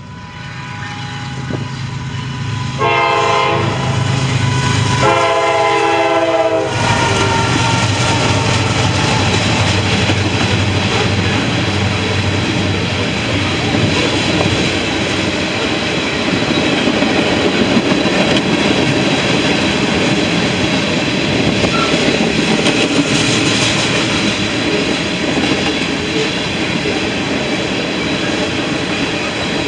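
Norfolk Southern freight train arriving at a grade crossing: the locomotive's rumble grows louder and it sounds its horn in two blasts, about three and five seconds in. From about seven seconds in, a long string of covered hopper cars rolls steadily past with wheel clatter on the rails.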